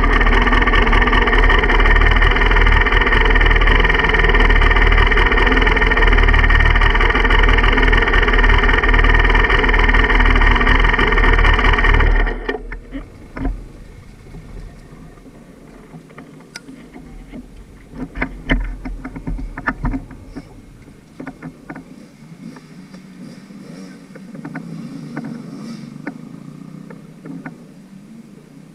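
Dirt bike engine running at a steady speed, loud, then cutting off suddenly about twelve seconds in; after that, quieter scattered clicks and knocks.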